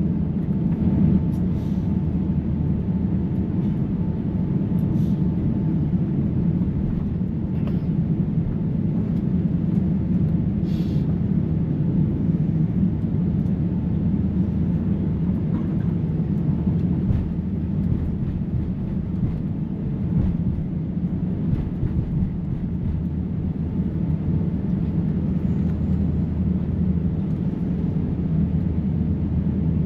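Steady low rumble and hum of a jet airliner's cabin on the ground with the engines running before takeoff, with a few faint clicks early on.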